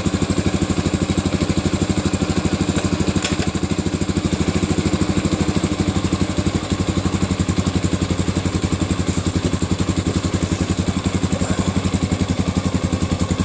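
1982 Honda XL500R's single-cylinder four-stroke engine idling steadily on a cold start, with an even, rapid beat, its carburettor freshly cleaned after it had been bogging and hard to start. A faint click about three seconds in.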